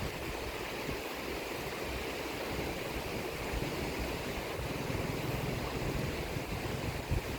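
Sea waves washing onto the shore in a steady hiss, with wind rumbling on the microphone underneath.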